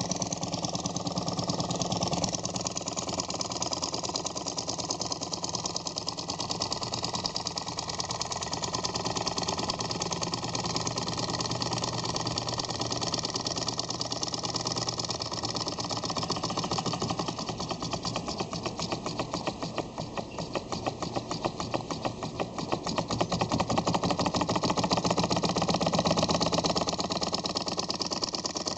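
Small Stirling engine running, its moving parts making a fast, even clatter that grows louder for a few seconds near the end.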